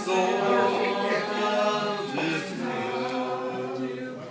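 Several voices singing together in long held notes, like a choir.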